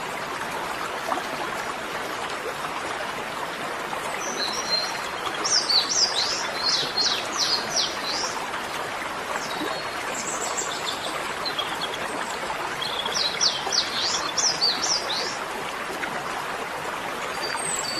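Birds singing in quick runs of high chirps, twice, over a steady hiss.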